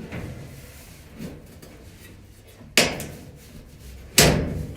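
Knocks and clunks of clothes-dryer parts being forced into place: a small knock, then two sharp bangs about a second and a half apart, the second the loudest.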